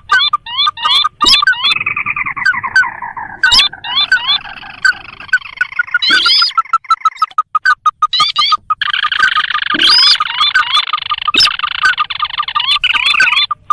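Crake (sintar) calls played as a lure: rapid, repeated sharp notes in several overlapping series, with a descending run of notes about two seconds in and a dense chorus of calls in the second half.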